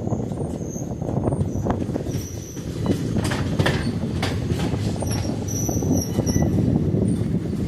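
Train running on the track, heard from aboard: a steady heavy rumble, with thin high wheel squeals that come and go and a run of sharp clicks from the wheels over rail joints about halfway through.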